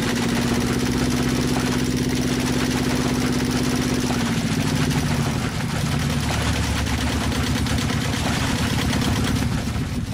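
Small motor of a miniature model boat running steadily with an even hum, its pitch dropping slightly about four to five seconds in.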